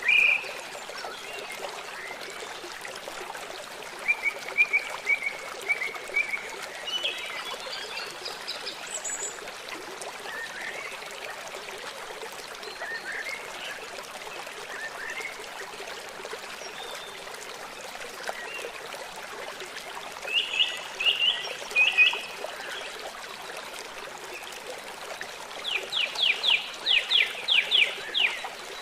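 Small birds chirping and calling over a steady trickle of running water, with short call phrases a few times and a quick run of about ten sharp notes near the end.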